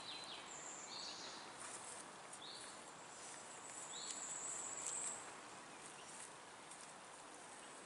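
Faint birdsong: a few short, high chirps and one longer thin high note around the middle, over a quiet outdoor hiss.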